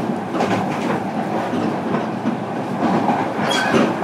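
Interior running noise of a JR Kyushu 305 series electric train, heard inside motor car Moha 305-102: a steady rumble of wheels on rail with irregular clicks of the wheels over rail joints.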